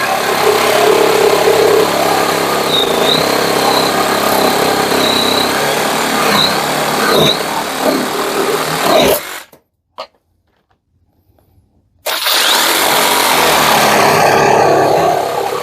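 Parkside Performance PSSAP 20-28 A1 cordless brushless sabre saw running as it cuts through a thick piece of wood. It stops suddenly about nine seconds in, a single click follows, and the saw runs and cuts again from about twelve seconds in.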